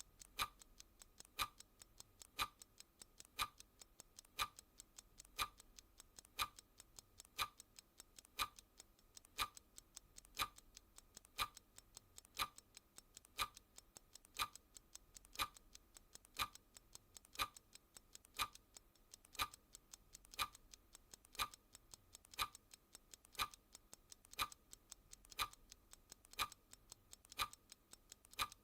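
Clock ticking sound effect: a sharp tick about once a second, with fainter, quicker ticks of a second hand in between.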